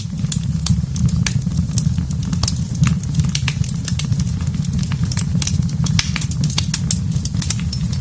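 Wood fire crackling, with frequent sharp pops and snaps over a steady low rumble of flame.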